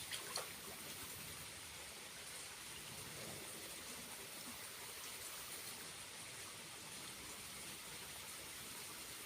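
Small waterfall's water falling and flowing steadily, with two short sharp clicks just after the start.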